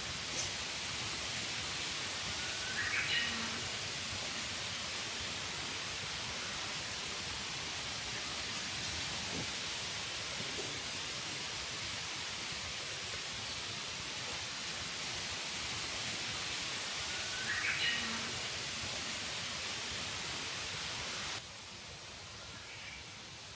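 Steady outdoor hiss, with a short rising chirp twice, and a sudden drop to a quieter ambience near the end.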